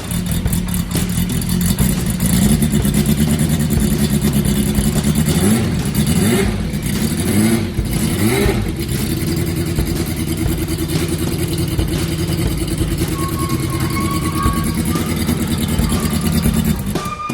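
Honda CB400 Four's air-cooled inline-four engine running freshly rebuilt with oversize pistons, blipped several times with the pitch rising and falling in the first half, then settling to a steady idle.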